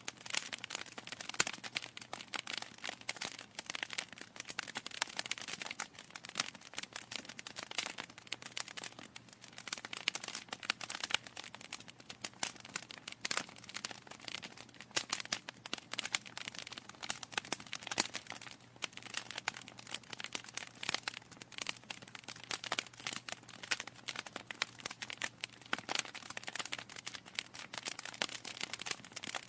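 Wood fire in a fireplace crackling, with dense, irregular pops and snaps from the burning logs over a soft hiss.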